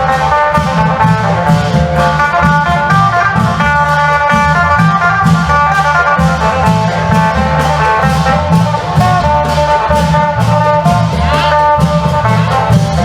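Isan phin (plucked lute) playing a fast melody of repeated plucked notes over klong yao long-drum rhythm, as in Isan long-drum procession music.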